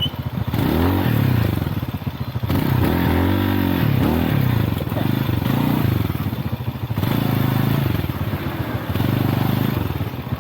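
Single-cylinder trail motorcycle engine being ridden, its pitch rising and falling again and again as the throttle is opened and closed, with some clatter from the bike over rough ground.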